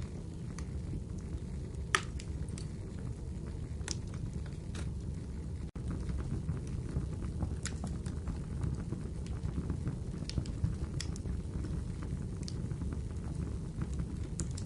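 Wood fire burning in a fireplace: a steady low rumble of flames with scattered sharp crackles and pops, the loudest about two seconds in. The sound cuts out for an instant a little before the middle.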